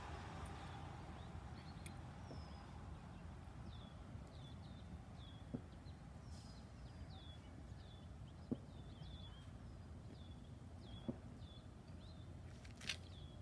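A small bird chirping repeatedly, short high calls that drop in pitch, about two a second, over a quiet outdoor background. A few soft taps are heard among them.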